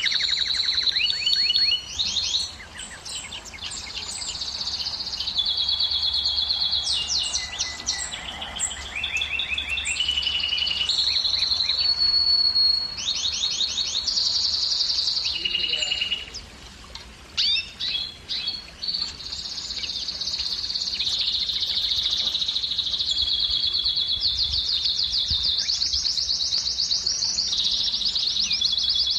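Male domestic canary singing: a long song of fast repeated trills, one high phrase running straight into the next, with a short break just past halfway.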